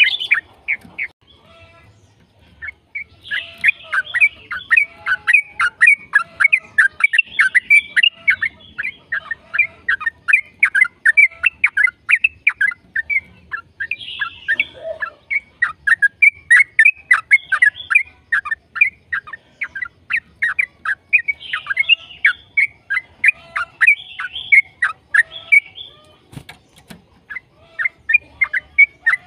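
Yellow-vented bulbul (trucukan) singing a long, fast run of loud chirping notes, several a second, after a short pause about two seconds in. This is the rapid 'ropel' song used as a lure to get a caged bulbul to sing back.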